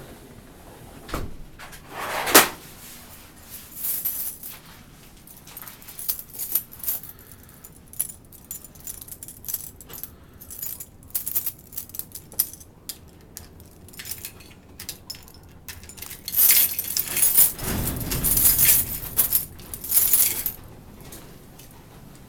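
Irregular clicking and rustling, with a sharp knock about two seconds in and a longer stretch of rustling from about 16 to 20 seconds.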